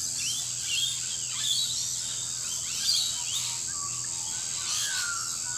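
Several birds chirping and calling in short notes and falling sweeps over a steady, high-pitched insect drone.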